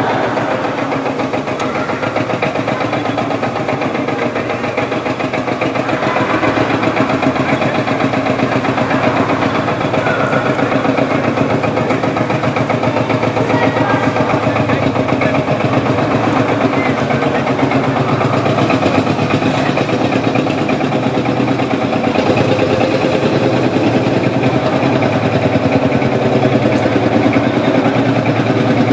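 Marshall tractor engine running steadily with a fast, even firing beat. It gets a little louder after about six seconds.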